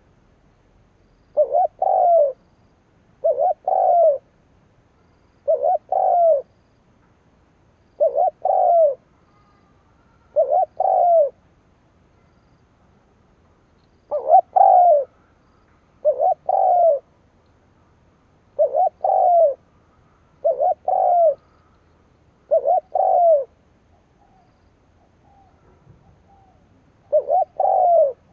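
Spotted dove used as a decoy bird (cu mồi) cooing, repeating short phrases of two or three low, slightly falling notes about every two seconds, eleven phrases in all, with two longer pauses of a few seconds.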